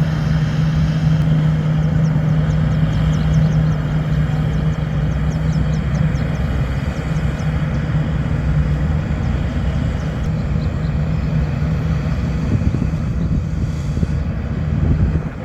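Heavy diesel engine of earthmoving machinery running steadily at a constant pitch. A fast, light clicking of about five a second runs through it from about a second in until about ten seconds in.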